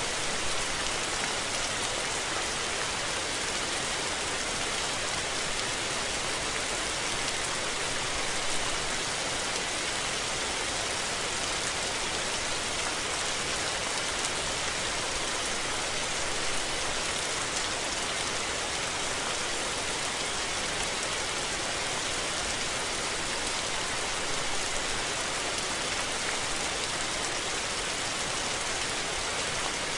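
Steady rain falling on surfaces, a dense even hiss of drops that holds at one level throughout.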